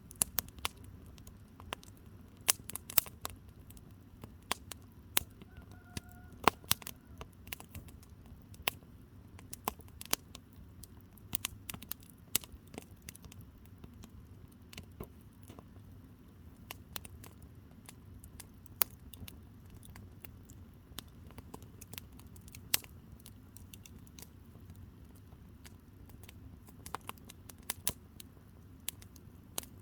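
Firewood burning, with sharp, irregular crackles and pops of varying loudness over a steady low rumble.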